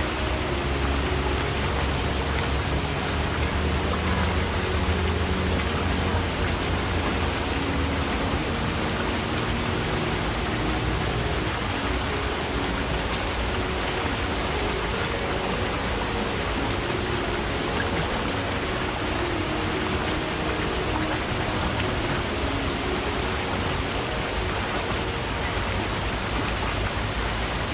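Forest stream: water rushing and splashing in a steady, unbroken wash.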